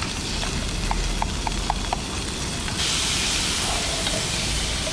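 Bacon lardons frying in oil in a pan on a camp stove, with a steady sizzle that gets noticeably louder and brighter about three seconds in.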